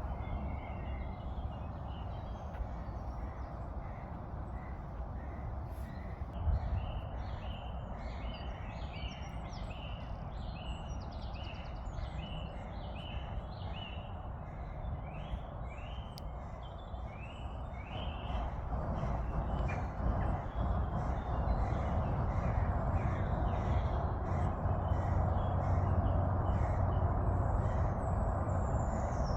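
Wild birds calling, many short chirps repeating a few times a second, over a steady low rumble that grows louder in the second half.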